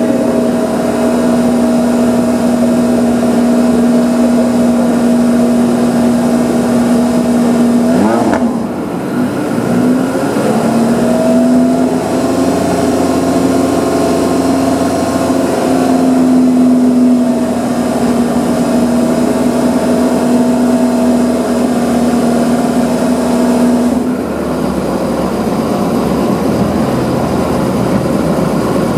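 Porsche 918 Spyder's 4.6-litre V8 held at steady raised revs. The revs dip and recover about a third of the way through, hold again, then fall back to a lower, rougher idle near the end.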